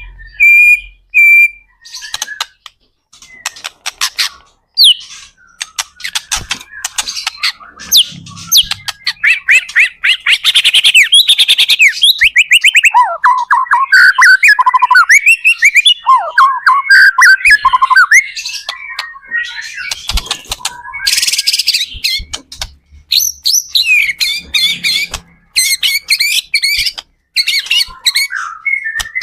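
White-rumped shama (murai batu) singing in full 'gacor' form: a long, varied song of clear whistles, fast trills and harsh chattering notes. It opens with short repeated whistles, and a dense run of rapid trilled phrases fills the middle.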